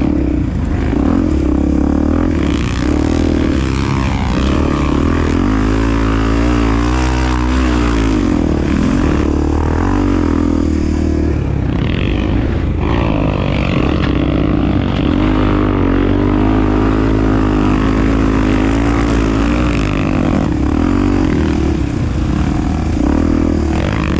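Honda Tornado's 250 cc single-cylinder four-stroke engine running under load, its revs rising and falling again and again.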